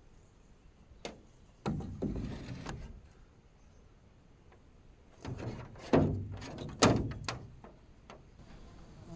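A series of knocks, clunks and rattles, like a door or panel being handled, with two sharp loud thuds about six and seven seconds in.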